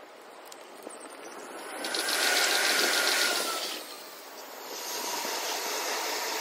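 Electric commuter trains passing over the tracks, played back six times faster, so the wheel-and-rail noise runs together into a fast, even rattle. The noise swells about two seconds in, dips near four seconds, and rises again as a train passes close, with a faint whine sliding slowly lower underneath.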